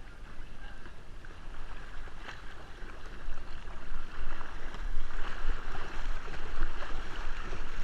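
Water splashing and sloshing around a kayak as it is paddled during play, getting louder about three seconds in.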